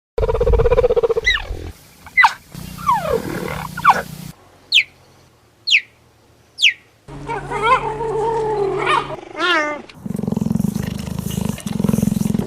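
A series of big cat vocalizations: a low rough call, then several short calls falling in pitch, including three high chirps about a second apart. Near the end come a long wavering call and a low rumbling call.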